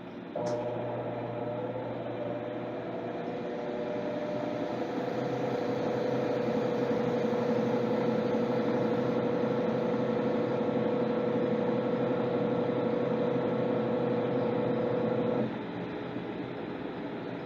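Electrolux LTC10 washing machine's motor switching on, running with a steady hum for about fifteen seconds, then cutting off suddenly, part of a wash cycle on the jeans program.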